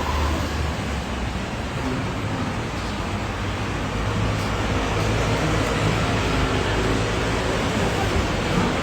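Steady engine noise outdoors: a low rumble under an even hiss, with no distinct events.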